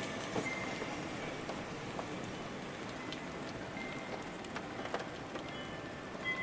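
Steady rain falling, with many separate drops tapping through the hiss. Faint wind-chime tones ring just at the start and again near the end.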